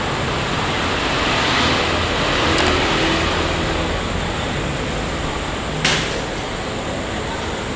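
Steady noise of a train at a railway station, with one short, sharp clank just under six seconds in.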